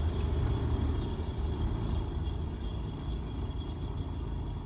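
Steady low engine and road rumble of a 1992 Ford Ranger pickup, heard from inside the cab while the truck drives slowly.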